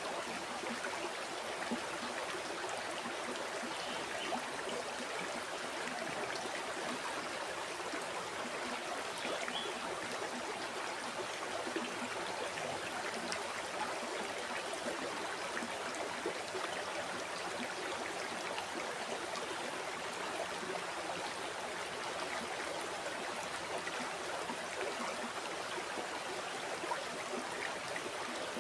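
A flowing river: a steady, even rush of water that does not change.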